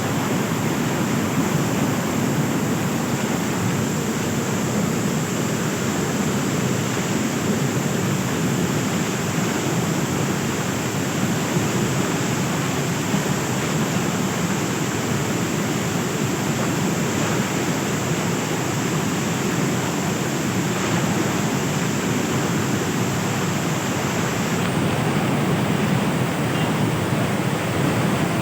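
Rushing floodwater: a steady, unbroken noise of fast-moving water with no separate splashes or impacts.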